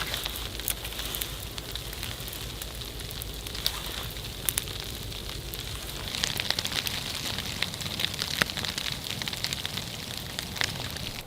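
Wood campfire crackling with irregular sharp pops over a steady hiss of rain.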